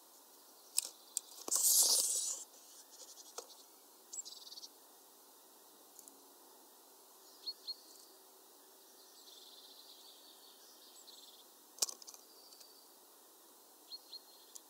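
Birds at a feeder. About two seconds in there is a loud flurry of wingbeats as a bird comes or goes. Sharp taps and clicks of birds on the wooden perches and feeder are scattered through the rest, with a few short, high chirps in pairs.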